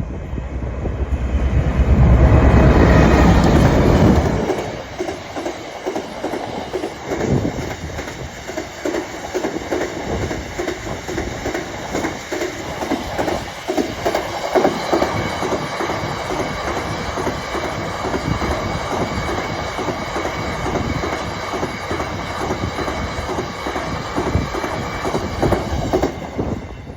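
A heavy diesel freight train passing close by: the locomotive goes past loudly in the first four seconds or so, then a long rake of freight wagons follows with a steady clickety-clack of wheels over rail joints.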